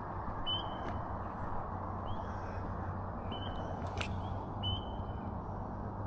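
Street ambience with a steady low background rumble and a bird giving four short high calls. One sharp click about two-thirds of the way through.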